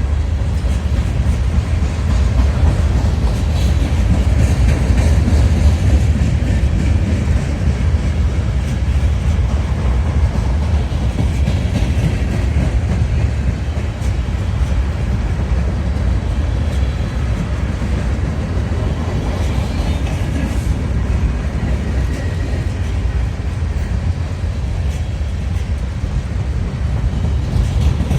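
Freight train rolling past: a steady, heavy low rumble of rail cars on the track, with faint clicks from the wheels.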